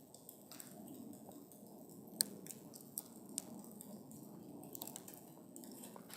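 Wood campfire burning: a steady low rumble and hiss of the flames with scattered crackles and pops, the sharpest pop a little after two seconds in.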